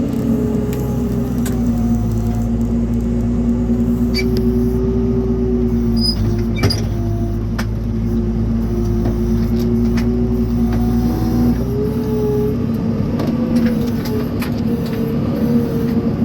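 A vehicle engine running steadily, its pitch wavering a little and rising slightly about twelve seconds in, with a few sharp clicks.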